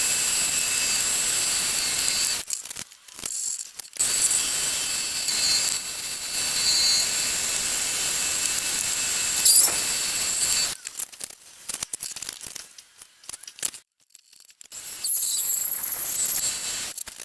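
Myford ML7 lathe running while a drill bores into an aluminium bar, a steady whirring noise with a high whine. It drops out about two and a half seconds in for a second or so, goes quiet again near eleven seconds, and comes back about fifteen seconds in.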